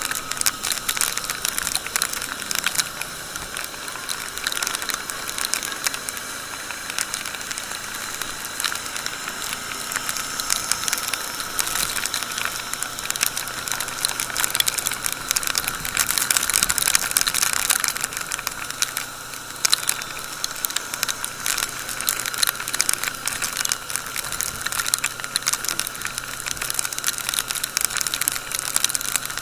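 Rain striking a camera on a moving motorcycle: a dense, irregular crackle of drops over a steady rush of wind and wet-road noise, a little louder about two-thirds of the way through.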